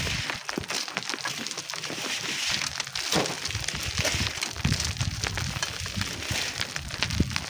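Constant crackling and crunching with many small clicks, and wind rumbling on the microphone from about halfway.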